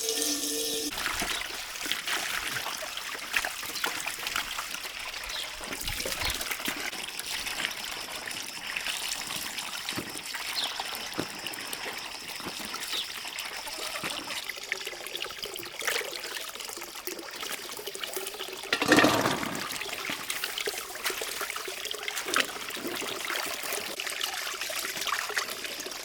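Water running and splashing, with many small knocks and one louder splash about two-thirds of the way through.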